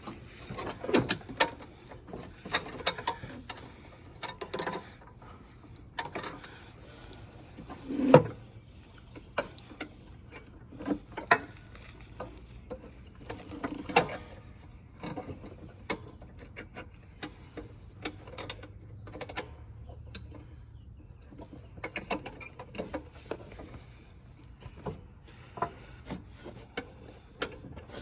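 Irregular metallic clicks and knocks of hand tools and parts being worked during a riding-mower repair, with louder knocks about a second in, about eight seconds in and about fourteen seconds in.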